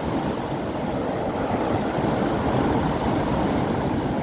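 Storm wind buffeting the microphone: a steady, dense low rushing noise with constant rumbling gusts.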